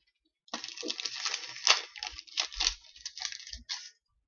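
Foil trading-card pack wrapper crinkling and tearing as it is opened and the cards are handled.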